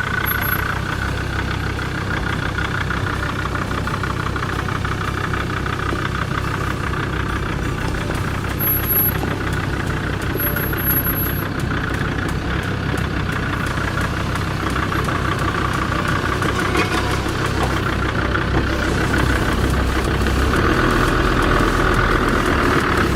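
Four-wheel-drive vehicle's engine running steadily as it crawls through an off-road track section, getting a little louder near the end.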